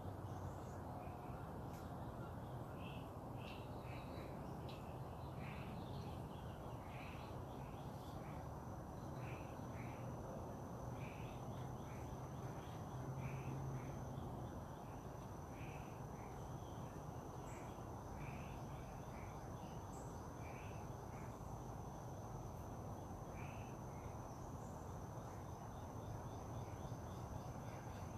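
Birds calling in short, repeated notes, with a thin, steady high tone starting about six seconds in and a low, steady rumble beneath.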